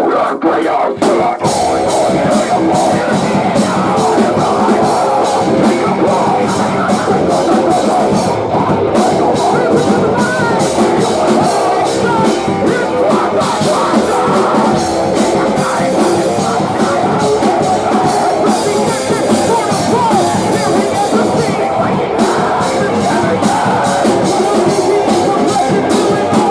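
Live post-hardcore band playing loud and steady: distorted electric guitars, drum kit and keyboard, heard as captured by an audience recording.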